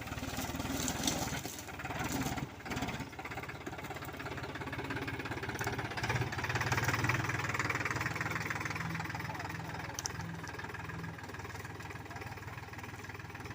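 Powertrac Euro 45 Plus 4WD tractor's diesel engine running steadily, getting louder for a couple of seconds about halfway through.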